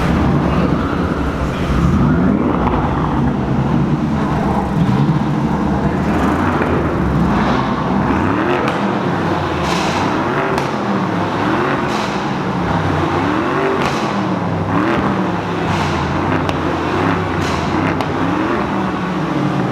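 A BMW 650i's V8 and a BMW M4's straight-six with an upgraded exhaust are revved hard while standing, taking turns in a rev battle. The engine pitch repeatedly sweeps up and falls back, about one rev every one to two seconds, with sharp exhaust cracks now and then.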